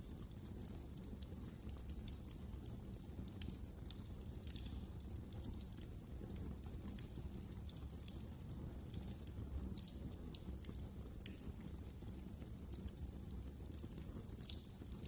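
Burning wood in a fireplace crackling, with frequent irregular sharp pops over a low steady rumble.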